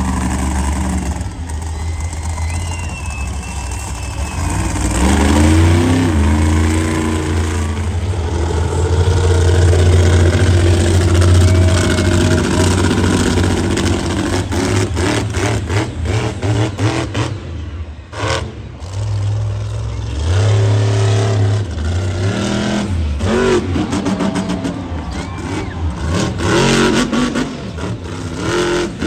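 Monster truck engine revving hard, its pitch climbing and falling again and again, with a stretch of rapid sharp crackling in the middle.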